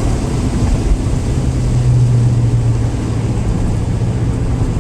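Car engine running under way, with a steady low drone and road noise; the pitch edges up slightly about a second in.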